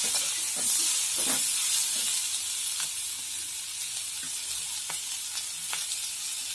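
Sliced onions, green chillies and garlic sizzling in hot oil in a kadai, with a spoon stirring and knocking against the pan for the first second or so. After that the pan is left alone: a steady sizzle with occasional crackles.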